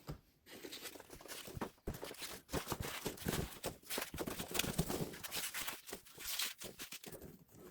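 Packing peanuts being scooped and shuffled out of a parcel by hand: a busy, irregular rustling with many small taps and scrapes.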